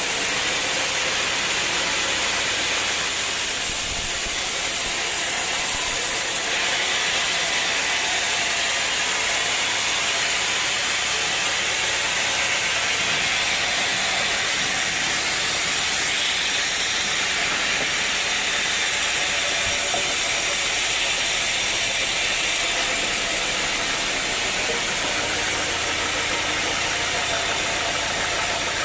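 Sawmill machinery running steadily: an engine under a continuous loud hiss, with a low hum joining about 25 seconds in.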